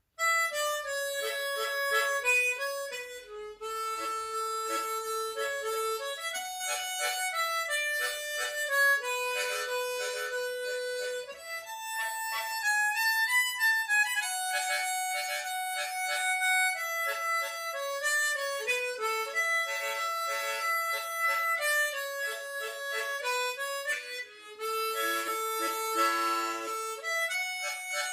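Small harmonica playing a slow melody solo, the notes held and often sounding as chords of two or three reeds at once.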